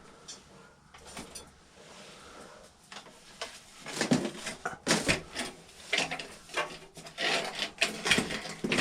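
Irregular clicks, knocks and rattles starting about three seconds in, from a portable oil-filled radiator heater and its plug being handled while it is checked.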